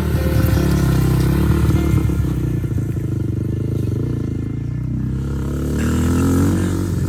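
Motocross dirt bike engine running and revving. The pitch dips a little past the middle, then rises again near the end.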